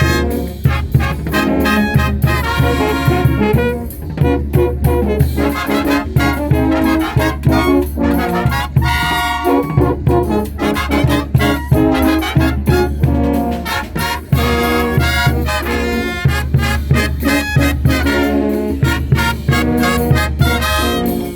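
Brass band playing a lively dance tune: trumpets and trombones over a steady drum beat.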